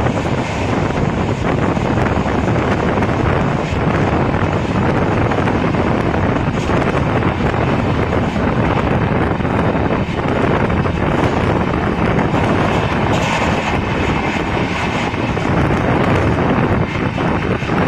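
Running noise of a passenger train at speed, heard from on board: steady rumble of wheels on rail with wind buffeting the microphone.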